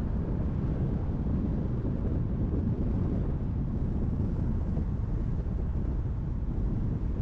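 Car driving on a highway: a steady low rumble of tyres on the road, engine and wind noise.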